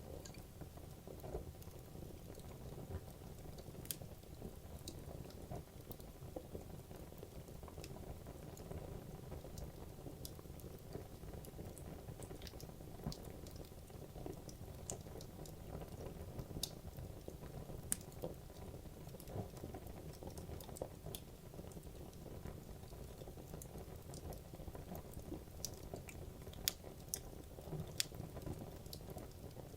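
Wood logs burning in a fireplace: a steady low rumble of flame with irregular crackles and pops from the wood, a few sharper pops standing out.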